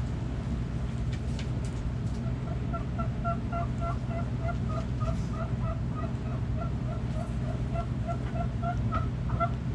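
A hen clucking in a long, even run of short notes, about three or four a second, starting about two seconds in, over a steady low rumble.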